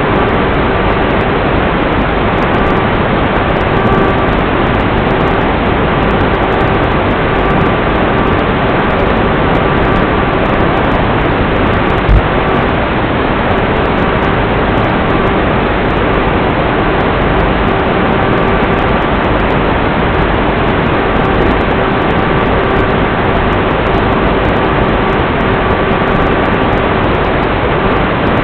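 Steady loud rushing of wind with a faint steady whine from the electric motor of an FPV wing in flight, heard on its onboard camera microphone. There is a single sharp pop about twelve seconds in.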